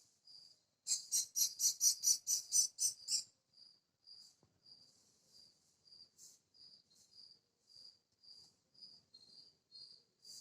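Small birds calling: short high chirps repeat about twice a second, and a loud quick run of about nine sharp calls, about four a second, comes in about a second in and stops about three seconds in.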